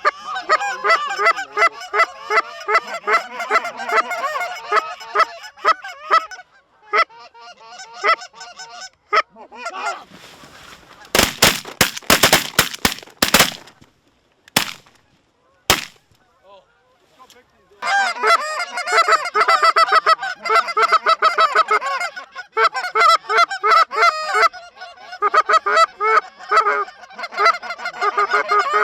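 Dense goose honking and clucking, then after a short lull a rapid volley of shotgun blasts from several guns firing together, followed by two single shots. The honking picks up densely again for the last ten seconds.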